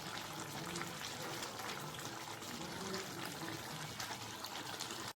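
Chicken curry cooking in a pan: a steady hiss with many small pops and crackles of liquid bubbling in the gravy.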